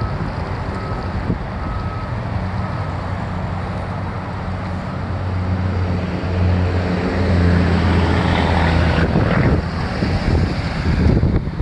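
Ford F550's 6.7L Power Stroke V8 turbo diesel running with wind and road noise, growing louder about six seconds in and easing back about three seconds later.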